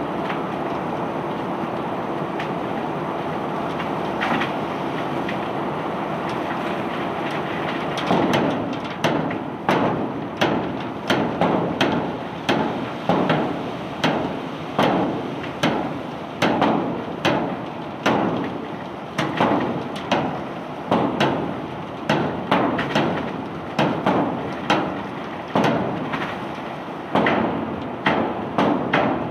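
Barge unloading cobblestones: a steady machinery rumble, then, from about a quarter of the way in, a long run of sharp knocks, roughly one or two a second, as the stones strike.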